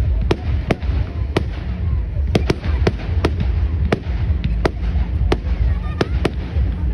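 Fireworks going off: a rapid, irregular string of sharp bangs and cracks, about two or three a second, over a steady low rumble.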